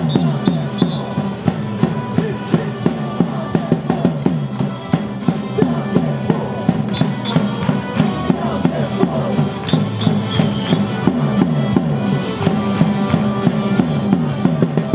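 Baseball batter's cheer song playing loudly with a steady drum beat of about two beats a second, with voices singing along.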